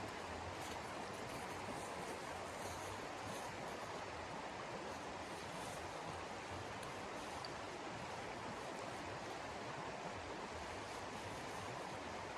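Steady rushing noise, even throughout, with a few faint ticks over it.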